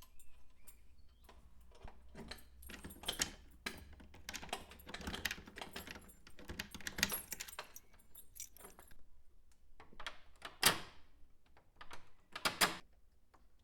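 Small hard objects clinking and rattling in irregular bursts, with a metallic jingle, and two louder sharp knocks near the end.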